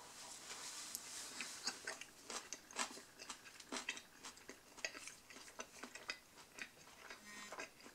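A person chewing a mouthful of spicy Italian sub sandwich, with quiet, irregular wet clicks and small crunches.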